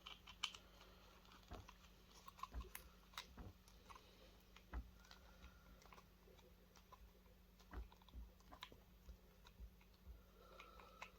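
Faint, scattered clicks and light taps of a small screwdriver working a tiny screw out of a plastic projector part, with the parts being handled, over a low steady hum.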